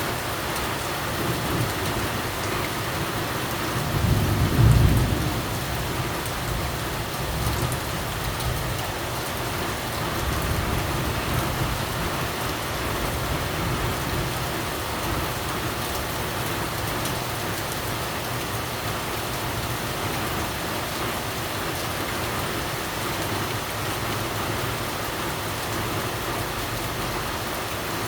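Steady heavy rain falling and pattering on surfaces. About four seconds in, a low rumble swells and fades, the loudest moment, with a weaker low swell a few seconds later.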